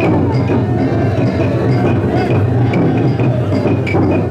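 Taiko drum of a chousa festival drum float beaten in a steady rhythm, with sharp wood-block-like clacks about three times a second.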